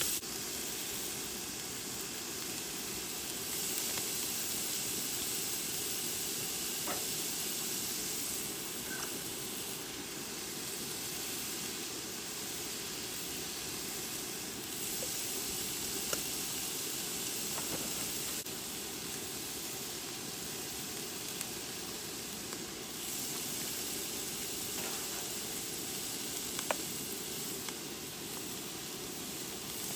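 Thinly sliced beef frying in a pan, a steady sizzle with a few light clicks scattered through.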